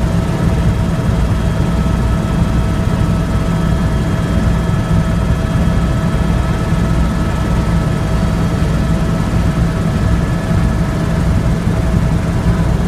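Tour helicopter running steadily: a constant low rotor and engine drone with a few steady whining tones above it, unchanging throughout.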